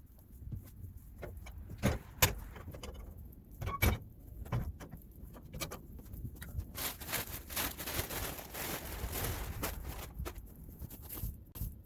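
Irregular clicks and knocks, with a few sharp ones in the first four seconds, then a denser rustling, clattering stretch from about seven to ten seconds in.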